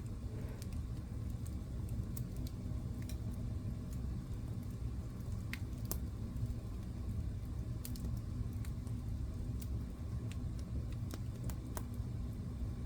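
Wood fire crackling in a fireplace: irregular sharp pops and snaps, roughly one a second, over a steady low rumble of the burning fire.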